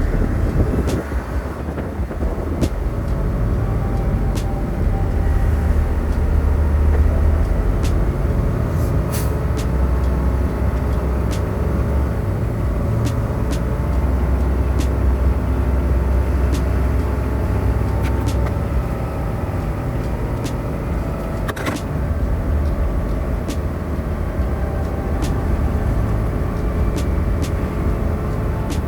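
Truck engine and road noise: a steady low rumble that swells and eases, with one sharp click about three-quarters of the way through.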